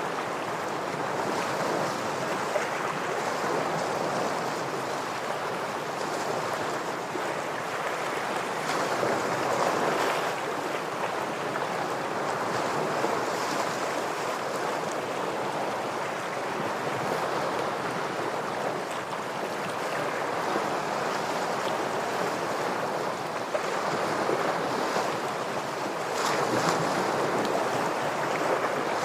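Ocean waves washing against shore rocks: a steady surf with swells about a third of the way in and again near the end.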